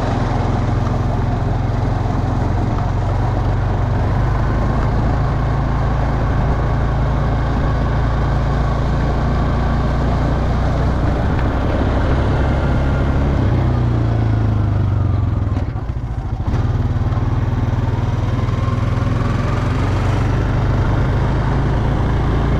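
Honda Rancher ATV engine running steadily while the quad is ridden along a road. The engine note shifts briefly about two-thirds of the way through, with a short dip in level, then settles back.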